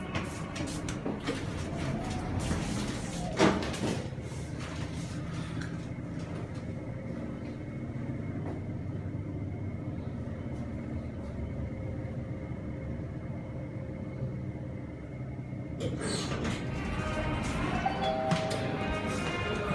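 Shopping-mall ambience: a steady crowd murmur with background music, and one sharp knock about three and a half seconds in.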